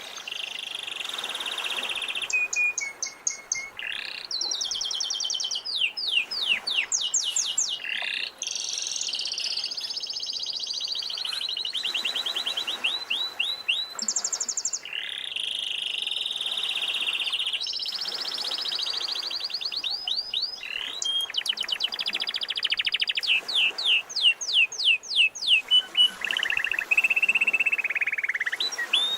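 Domestic canary singing a long continuous song: fast trills of rapidly repeated notes, some sweeping down in pitch, alternating with sustained buzzy rolls held on one pitch, changing phrase every second or two.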